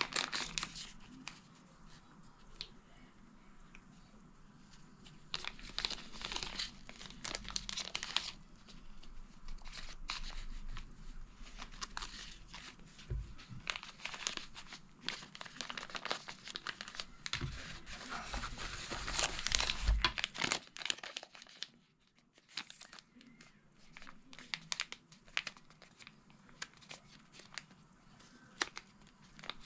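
Packaging being handled and opened: irregular crinkling, rustling and tearing with small clicks, busiest for the first twenty seconds and thinning out to scattered clicks near the end.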